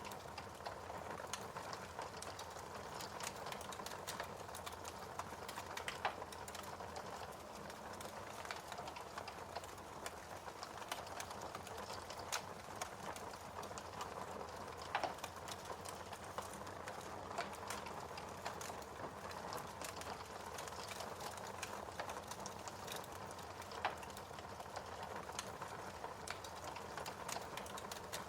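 Fireplace fire crackling: a steady hiss with frequent small irregular pops and a few louder snaps.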